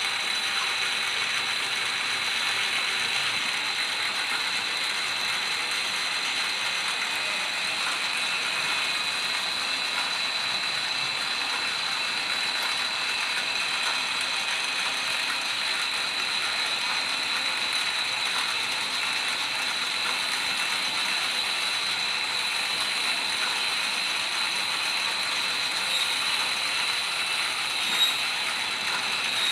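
Lathe running steadily, its gear train giving a high, even whine over a dense mechanical rattle, with a couple of brief ticks near the end.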